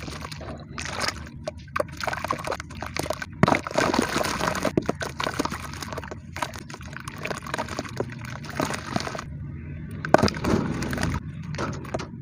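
Crumbly cement clumps being crushed and dropped into water: wet sloshing mixed with many small gritty cracks and crackles.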